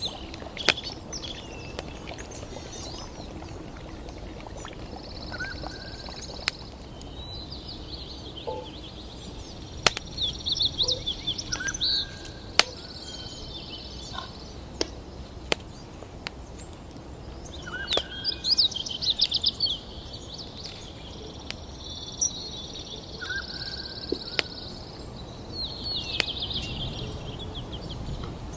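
Songbirds singing in short repeated chirping phrases over a steady low background rush. Sharp clicks or snaps come now and then.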